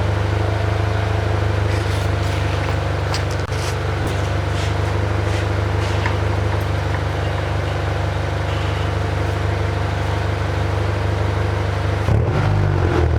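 1993 Honda Civic EG hatchback's engine and exhaust idling steadily with a deep, even note; about twelve seconds in, the revs start to rise and fall as the throttle is blipped.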